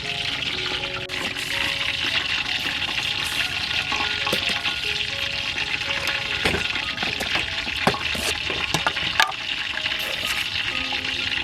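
Food frying in hot oil, a steady sizzle with scattered crackles and pops, over soft background music.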